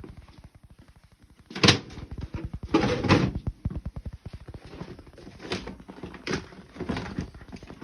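Handling noises of a nitro RC monster truck and its plastic body being picked up and moved about: a few short knocks and scrapes, the loudest about a second and a half in and around three seconds in.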